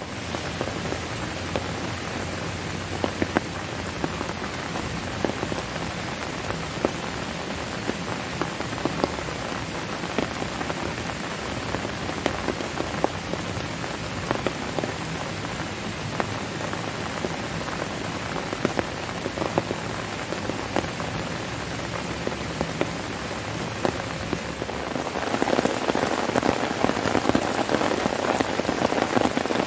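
Heavy rain falling steadily, with many separate drops striking sharply through the downpour; it grows louder about 25 seconds in.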